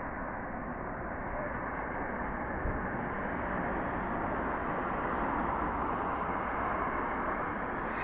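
Steady rushing outdoor noise that grows slightly louder, with faint, sparse crackles of distant fireworks from about five seconds in.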